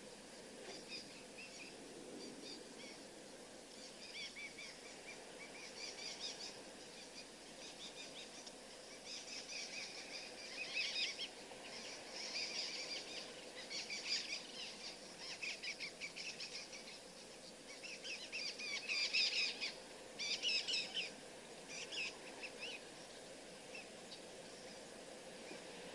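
Birds chattering in quick rattling bursts of chirps, busier and louder through the middle, over a faint steady hum.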